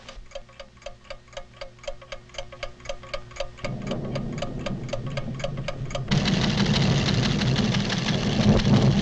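Cartoon sound effect of a scientific instrument ticking steadily, about five ticks a second. A low rumble comes in partway through and grows much louder about two-thirds of the way in, drowning the ticking.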